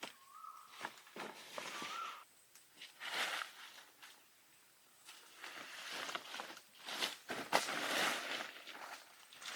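Irregular bursts of rustling and scraping with a few sharp clicks, the longest stretch from about five seconds to near the end. A faint wavering whistle-like tone sounds during the first two seconds.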